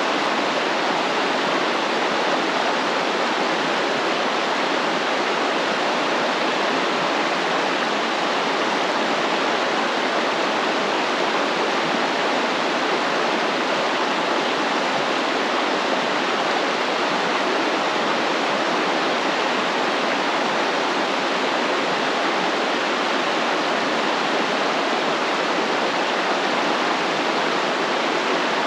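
Stream water flowing steadily over rocks, a constant even rush of running water.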